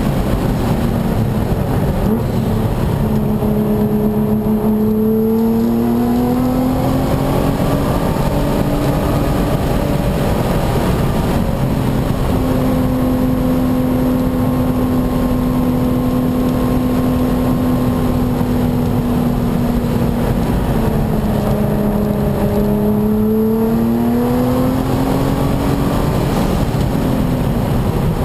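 Nissan GT-R's twin-turbo engine heard from inside the cabin at speed on track, over constant wind and road noise. The engine note drops as the car slows and rises as it accelerates, twice, with a long stretch of steady pitch in between.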